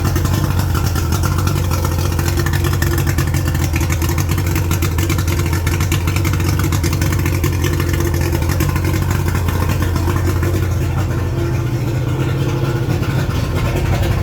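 1989 Mariner 90 hp inline three-cylinder oil-injected two-stroke outboard running steadily at an even speed, with a freshly rebuilt fuel pump and new inline fuel filter.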